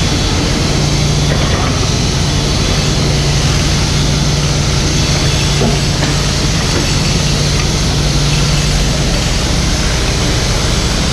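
Mini excavator's diesel engine running steadily, a loud, even low drone with no change in speed.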